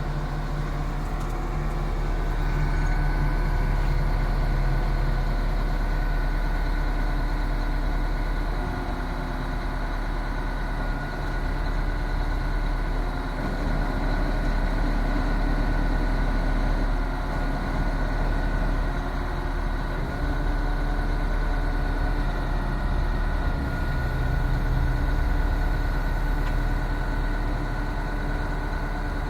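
Diesel engine of a 2001 International 4800 4x4 bucket truck running steadily.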